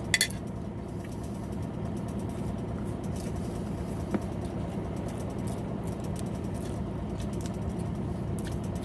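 Truck engine idling steadily. There is a sharp click just after the start and a faint tick about four seconds in.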